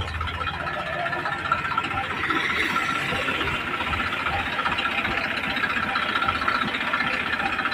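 An engine running steadily, its fast even pulses holding throughout and growing slightly louder in the first couple of seconds.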